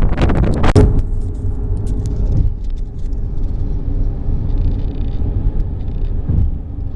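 Strong wind buffeting the microphone: a loud, gusty low rumble, heaviest in the first second.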